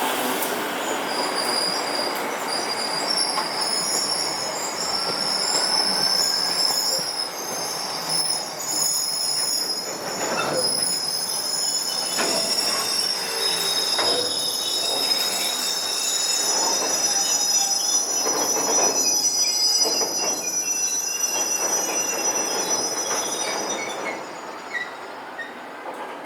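A train passing with its wheels squealing on the rails: several high-pitched squeals held together over a running rumble, with a string of knocks from the wheels partway through. The squeal fades about two seconds before the end.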